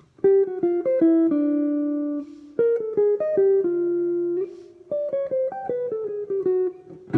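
Guitar playing a jazz lick as single plucked notes in three short phrases, the first two each ending on a held note and the last a quick descending run.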